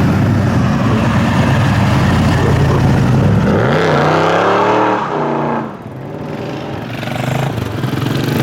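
Loud car engine running steadily, then revving up in a rising sweep as the car accelerates about three and a half seconds in. The sound drops away sharply after that, and engine noise builds again near the end.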